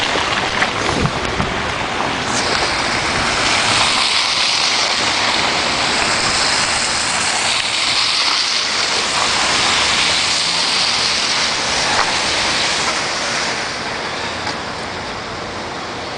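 Vehicle tyres hissing on a wet, snow-melt street as traffic passes. The hiss swells after a couple of seconds and fades near the end.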